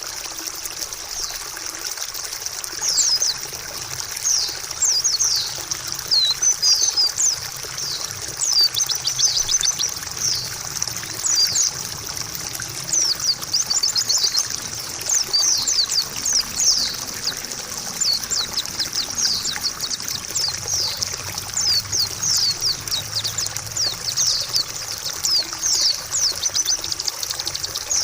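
Female white-eye (pleci) calling in rapid strings of high, thin chirps, many short falling notes, over steady trickling water.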